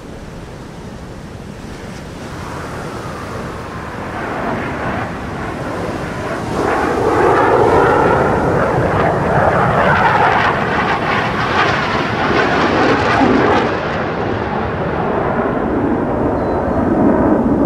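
Fighter jet flying past, its engine roar building over several seconds to a loud peak and easing only slightly, with the pitch sweeping as it approaches.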